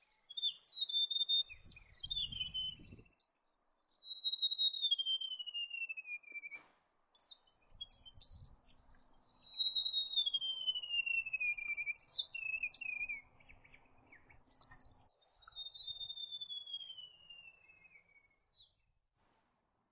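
Bird song: clear whistled phrases, several of them long notes falling steadily in pitch over about two seconds, repeated every few seconds.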